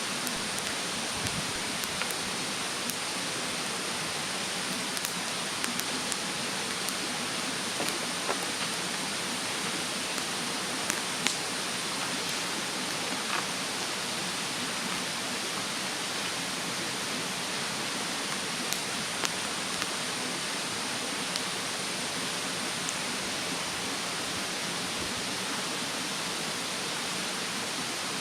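Wood bonfire crackling, with scattered sharp pops, the loudest about eleven seconds in, over a steady rushing hiss of a mountain stream.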